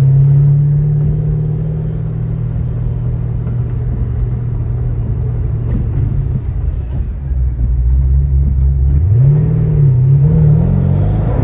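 A car engine running, its pitch sinking slowly, then dropping low for a couple of seconds before it revs up and wavers up and down near the end.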